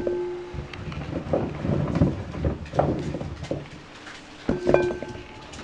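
Potatoes being put into a bowl on kitchen scales: irregular knocks and light clattering. Two short steady tones sound, one at the start and another about four and a half seconds in.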